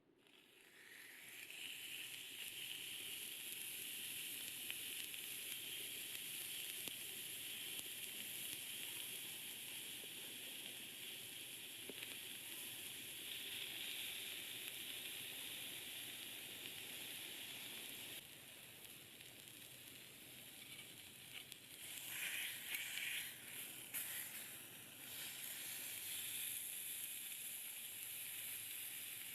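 Steak sizzling on a grill over a wood campfire, a steady frying hiss that starts suddenly, as if the meat has just gone onto the grate. About 22 seconds in it turns louder and more spitting for a few seconds.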